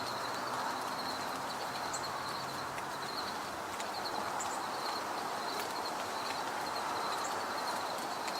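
Outdoor ambience: a steady rushing hiss with an insect's rhythmic pulsing trill. A few brief, high chip notes from small birds come through now and then.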